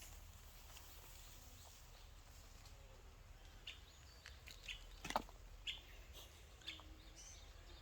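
Near silence with a few faint, short bird chirps scattered through the second half, and one soft click about five seconds in.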